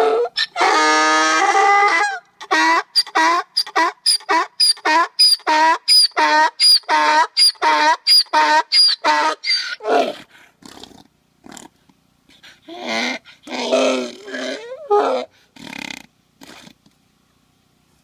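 An animal calling loudly in a long run of short, pitched calls, about two a second, opening with one longer call; the calls thin out after about ten seconds, with a last louder group a little later.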